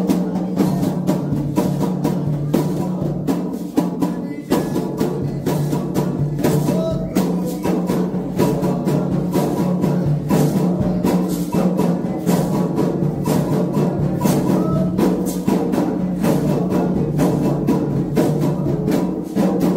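Candomblé ritual drumming: atabaque hand drums playing a fast, steady rhythm with a bell or wood-block-like strike on top.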